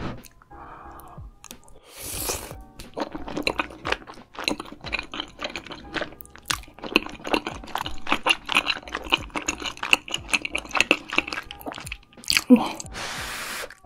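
Close-miked ASMR chewing of spicy rice cakes: a quick run of small wet mouth clicks and smacks, with a couple of longer hissy breaths or slurps.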